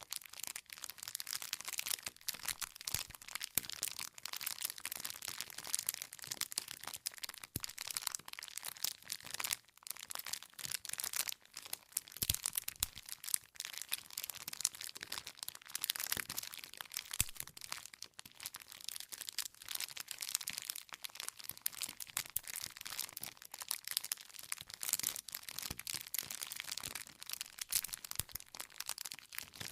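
Wood campfire burning with constant dense crackling and scattered sharper pops as the firewood snaps.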